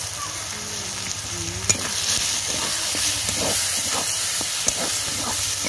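Onion-tomato masala with fresh chilli powder sizzling in a metal kadai while a flat metal spatula stirs it, with a couple of sharp scrapes and knocks of the spatula on the pan. The sizzle gets louder a couple of seconds in as the masala is turned.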